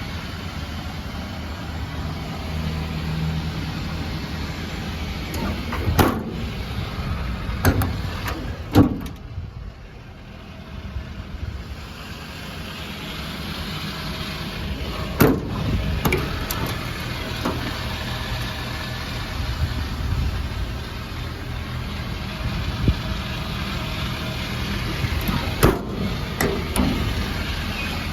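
An engine idling steadily, broken by several sharp thumps, the loudest about 9 and 15 seconds in. The idle dips in level for a few seconds after the second thump.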